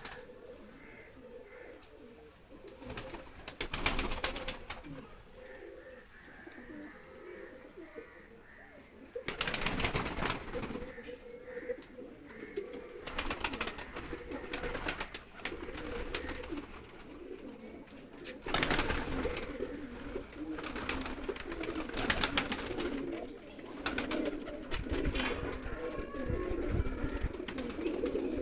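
Domestic pigeons cooing in an enclosed coop, a steady low murmur. Several louder bursts of rapid rustling or scuffling break in, the loudest about a third of the way in and again about two-thirds through.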